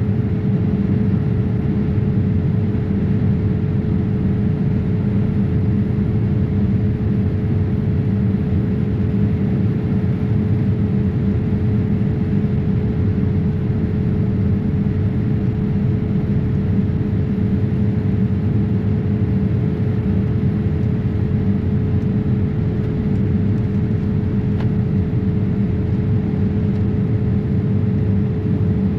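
Steady airliner cabin noise aboard a Boeing 787-8 in flight: an even rumble of engines and airflow with a constant hum tone running through it.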